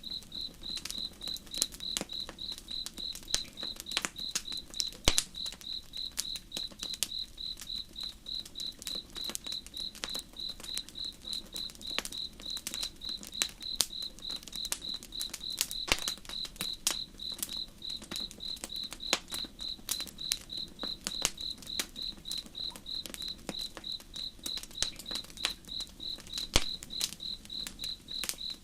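A cricket chirping in an even pulse, about three chirps a second, over the irregular snaps and pops of a crackling campfire. The sharp pops are the loudest sounds.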